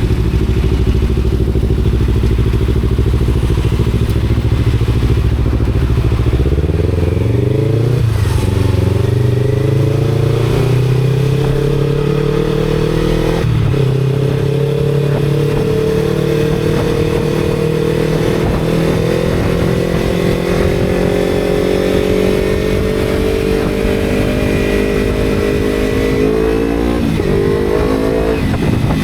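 Motorcycle engine accelerating up through the gears. The engine note climbs and drops back at each of three gear changes, with a long, slowly rising stretch between the second and the third.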